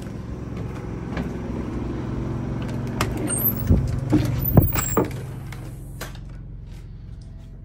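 A motor running with a steady low hum, with several sharp knocks and clicks and a few brief high squeaks about three to five seconds in. The hum fades away near the end.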